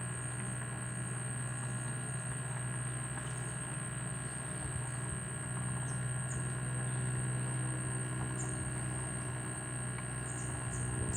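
Steady night ambience: a continuous high thin chirring like crickets or other night insects over a constant low hum, with a few faint short chirps near the middle and end.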